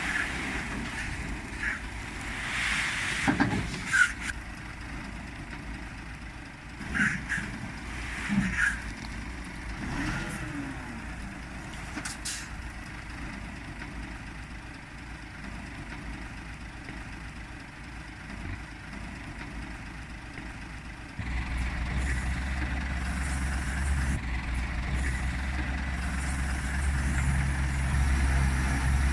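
Diesel engine of a Scania tractor unit with a tipper trailer running, with a few short sharp noises in the first third. About two-thirds of the way through, the engine sound suddenly steps up and runs louder and steady with a deep hum.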